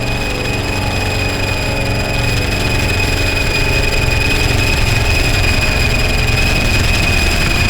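Harsh noise drone from DIY synthesizers through distortion pedals: a dense, distorted low rumble under a steady piercing whine and hiss, swelling slightly about three seconds in.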